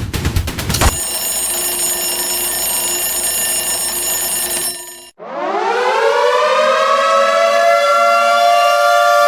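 An air-raid style siren winds up about halfway through, its pitch rising and then levelling off into a steady wail. Before it, a rapid rattling run of strikes cuts off about a second in, and a steady held tone fades out.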